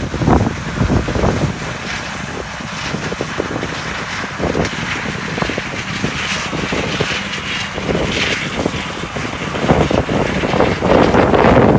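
Farm harvest machinery running with wind buffeting the microphone, the noise swelling louder near the start and again near the end.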